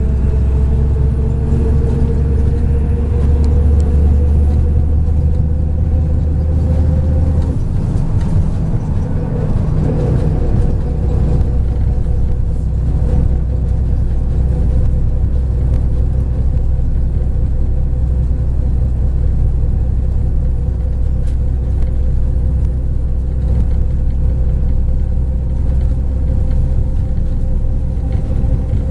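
MAZ-103 bus's diesel engine and drivetrain heard from inside the passenger cabin: a steady low rumble with a whine that rises slowly as the bus gathers speed, a sudden change in the note about seven seconds in, then an even drone.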